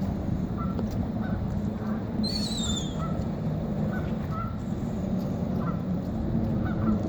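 Short honking bird calls at irregular intervals over a steady low rumble, with a brief falling, warbling whistle about two seconds in.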